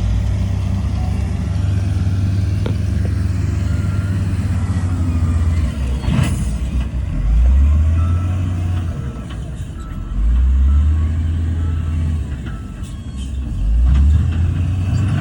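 Heavy earthmoving equipment's diesel engine running with a low drone. It revs up three times, about seven, ten and fourteen seconds in, each time getting louder and then dropping back.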